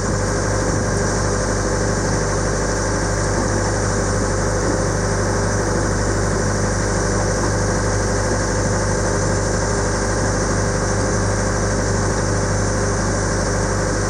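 Motorboat engine running steadily while the boat is underway, an even hum that does not change.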